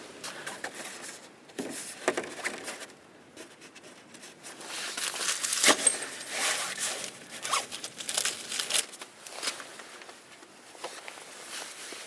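Irregular rustling and crinkling handling noises: a string of short scrapes and crackles, busiest in the middle.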